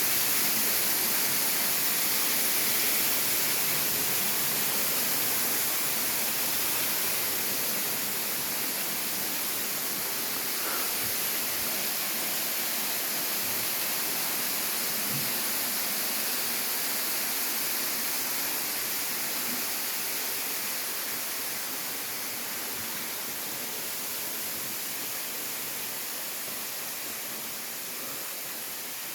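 Steady rush of water from a waterfall, gradually growing quieter.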